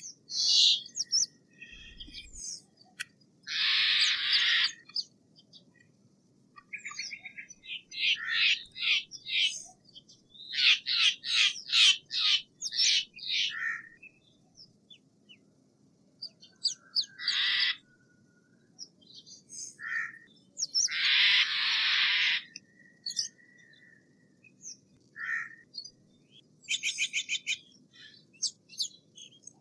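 Steller's jay calling: a few drawn-out rasping calls about a second long, and fast runs of short repeated notes, with brief chirps in between.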